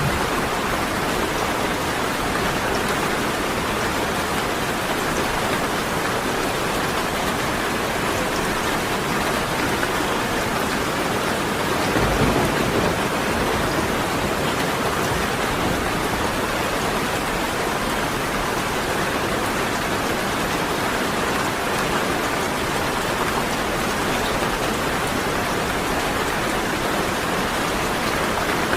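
Steady rain falling in a dense, even hiss, with a brief low rumble swelling up about twelve seconds in.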